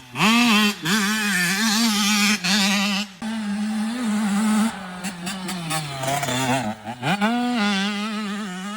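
Yamaha YZ65 two-stroke motocross bike ridden hard: the engine revs up sharply, holds high with a wavering pitch, eases off about six seconds in and climbs again a second later. The owner suspects the carburettor is not properly jetted.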